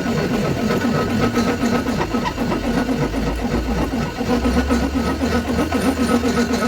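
A machine running steadily with a continuous mechanical drone and a rapid repeating low pulse; a deeper hum strengthens about four seconds in.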